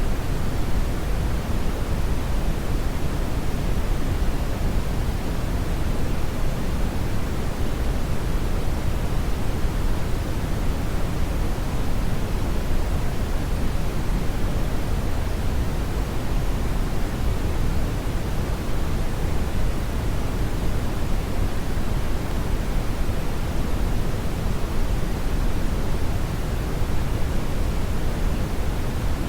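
Steady brown noise: an even, unbroken rushing hiss, deep and heaviest in the low end, with no change or events.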